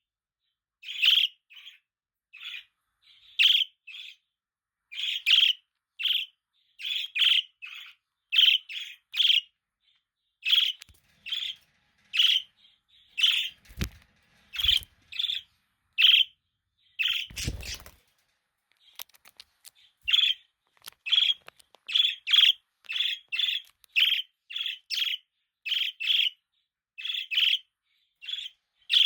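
Budgerigar chirping in short, high chirps, about one or two a second, with brief pauses. A couple of soft rustling thumps come about halfway through.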